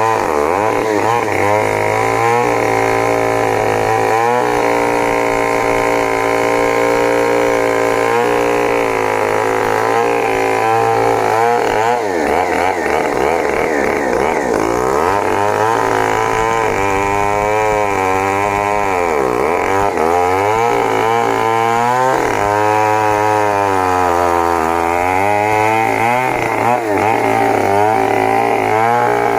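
Stihl 070 two-stroke chainsaw cutting under load, its engine pitch repeatedly sagging and picking back up as the chain bites into the wood, with deep dips about twelve, nineteen and twenty-four seconds in. A steady low hum runs beneath it.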